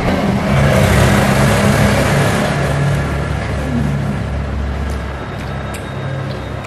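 An engine running with a steady drone that slowly grows fainter.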